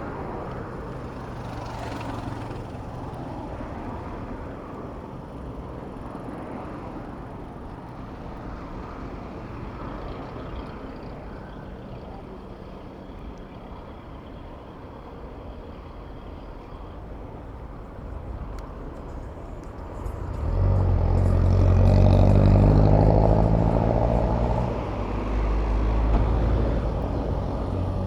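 Street traffic heard from a bicycle: a steady rumble of vehicles, then about twenty seconds in a motor vehicle's engine comes up close and loud for several seconds before easing off.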